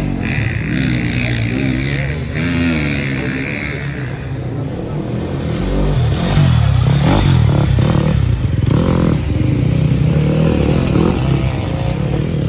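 Off-road racing engines revving, the pitch rising and falling as the machines accelerate and back off, growing louder about halfway through.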